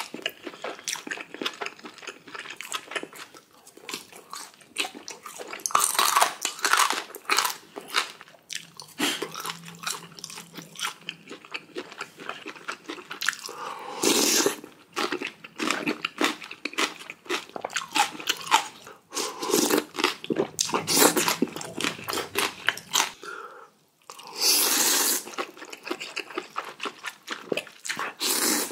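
Close-miked eating sounds: a person chewing and biting food, with many crisp crunches and several louder bursts of noise spread through.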